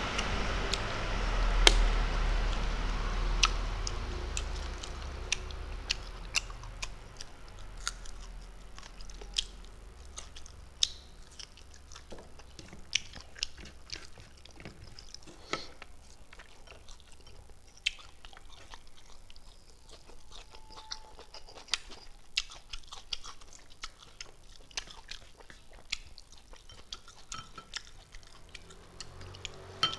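Close-miked eating sounds of a man eating rice and chicken wings with his fingers: chewing and mouth smacks, with frequent short sharp clicks. A low rumble in the background fades away within the first few seconds.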